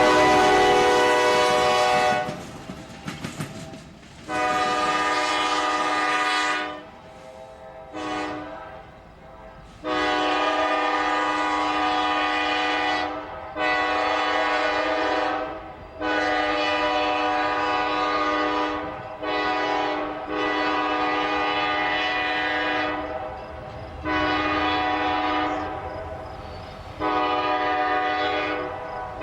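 CSX freight locomotive's multi-chime air horn blowing a loud chord in repeated blasts. It opens with the long-long-short-long grade-crossing signal, then keeps sounding long blasts, over the rumble of the passing train.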